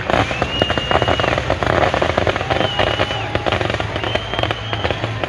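Fireworks crackling with rapid sharp pops, and three high steady whistles about a second long each.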